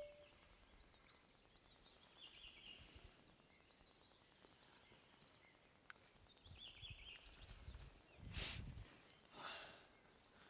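Near-silent riverside quiet with faint birdsong: two short chirping phrases. Near the end come two brief swishing noises a second apart.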